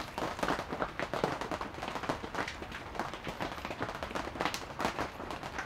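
Crisp fried chicken being bitten and chewed close to the microphone: a dense, irregular run of crunches and crackles.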